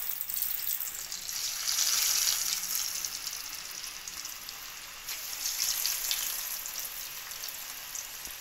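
Breaded paneer fingers frying in hot oil in a pan: a steady bubbling sizzle that gets louder twice, about a second and a half in and again about five seconds in, as new pieces go into the oil.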